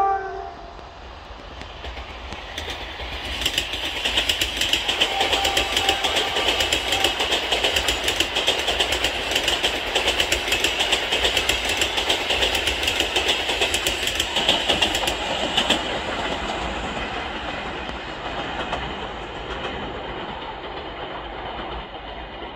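A passing train: wheels rolling on the rails with a steady hiss and rapid clicking, swelling about three seconds in, loudest for some twelve seconds, then fading away.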